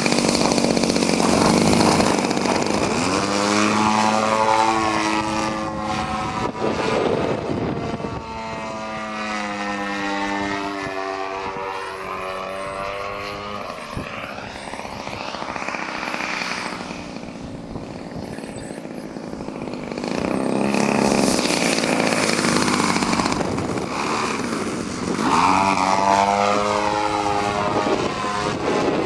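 A small engine running, its pitch rising and falling several times as it revs up and settles back.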